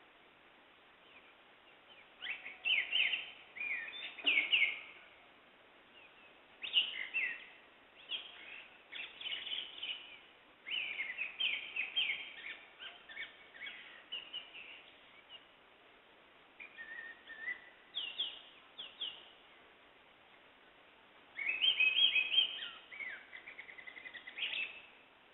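Wild songbirds singing in a deodar forest: bouts of short, high chirping phrases, with quieter gaps between them and louder bursts near the start and again near the end.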